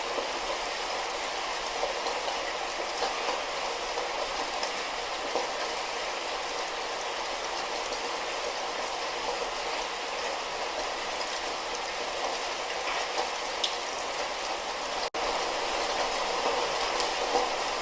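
Steady light rain falling, with scattered individual drop ticks. About fifteen seconds in the sound cuts out for an instant and resumes slightly louder.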